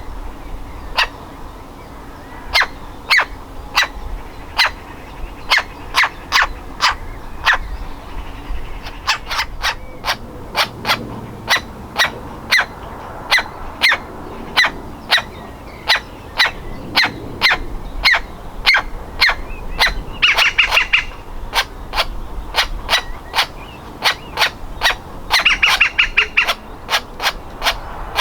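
Nestling woodpecker calling from the nest hole: a long run of short, sharp calls about two a second, with two brief buzzy trills about twenty seconds in and again five seconds later.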